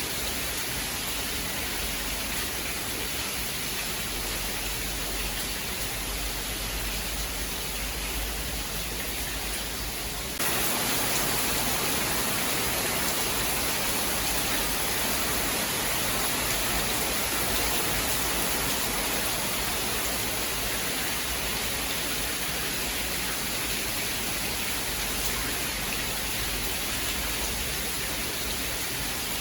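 Steady rain hiss with no thunder. About ten seconds in it switches abruptly to a louder, brighter hiss.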